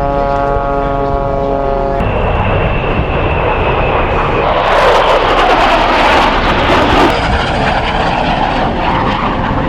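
Airplane engines: first a steady drone with a fixed pitch, then after an abrupt cut a louder rushing engine noise that swells about halfway through and then holds steady.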